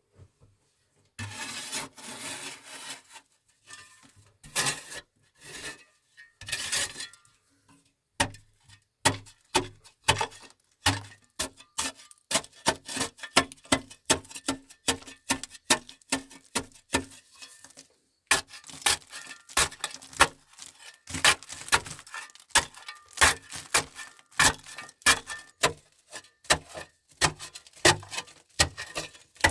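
A rapid series of sharp taps and knocks, a few a second, with scattered rubbing and scraping in the first seconds.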